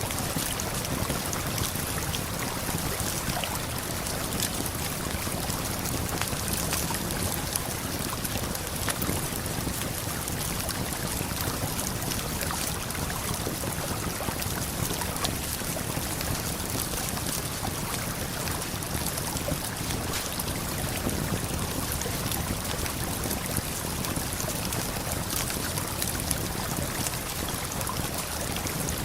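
Steady rush of a waterfall and flowing river, with scattered small crackles of a campfire over it.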